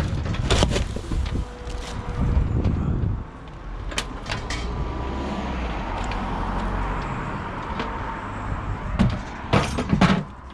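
Several sharp knocks and clunks, then a steady low rumble of a car running for about six seconds, then more knocks and clunks near the end, like car doors and handled metal.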